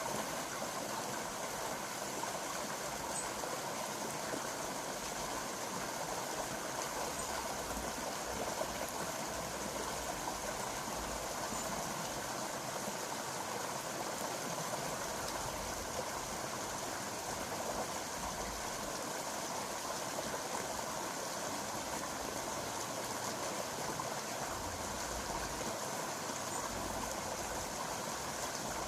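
A stream flowing with a steady, even rush of water, with an uneven low rumble underneath.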